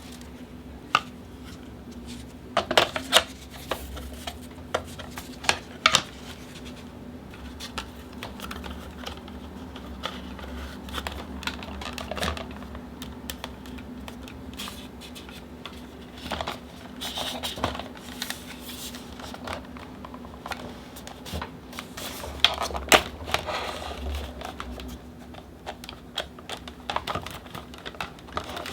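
Irregular clicks and knocks of hard plastic fan parts being handled and fitted together, with a steady low hum underneath.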